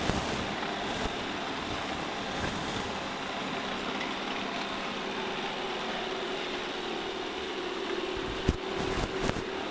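Shark IQ robot vacuum running across the floor: a steady motor and brush hum with a constant tone, and a few sharp knocks near the end.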